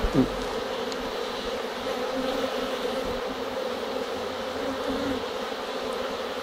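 Honeybee colony humming steadily from an opened hive, a dense, even buzz of many bees. A brief louder buzz falls in pitch right at the start.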